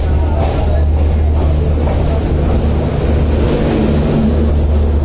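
An Indian Railways express passenger coach rolling slowly out of a station, heard from its open doorway: a steady, loud low rumble.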